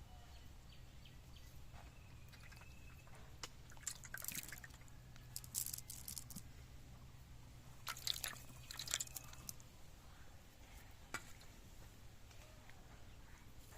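Water splashing and dripping in several short bursts, over a faint low hum that stops near the end.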